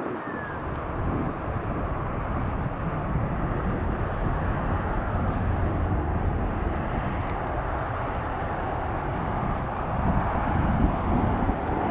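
Aircraft engine noise heard as a steady, even rush, with gusts of wind rumbling on the microphone, strong crosswind conditions.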